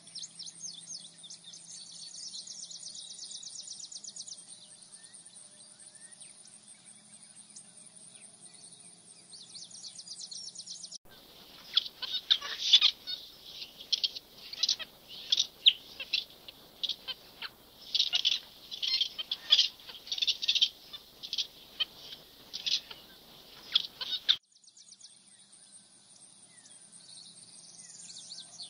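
Birds calling: a dense chorus of fast, high-pitched ticking calls, which gives way about eleven seconds in to a run of loud, repeated sharp chirps. The ticking chorus comes back for the last few seconds.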